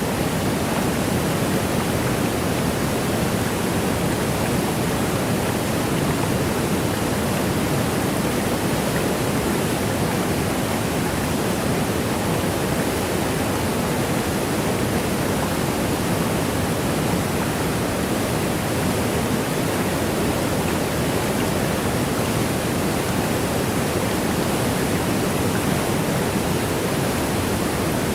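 Waterfall: water rushing and falling in a steady, unbroken roar of noise, fullest in the low and middle range.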